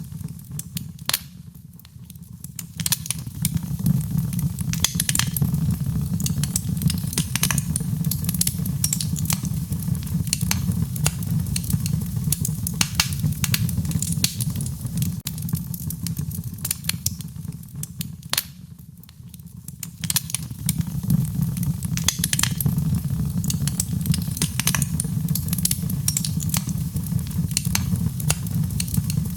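Wood fire burning in a fireplace: a steady low rumble of flames with frequent sharp crackles and pops of burning wood, easing briefly twice.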